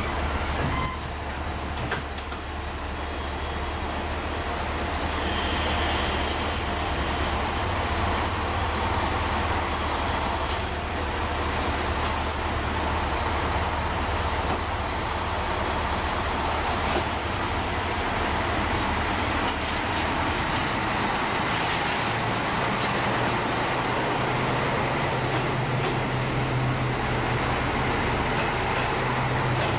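KiHa 185 series diesel railcar running with a steady low drone, a sound questioned as abnormal. About 22 seconds in, the hum steps up to a higher pitch.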